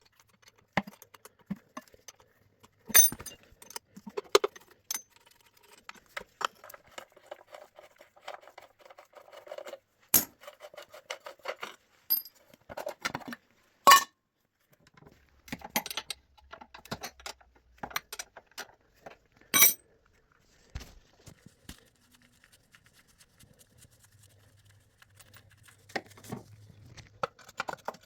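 Scattered metallic clinks, taps and knocks of hand tools and parts being handled while a motorcycle is being stripped, with a few sharper strikes standing out.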